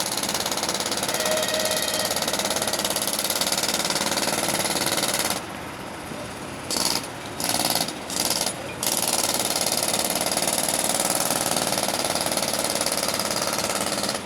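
Jackhammer hammering steadily. It stops about five seconds in, gives three short bursts, then runs steadily again and cuts off near the end.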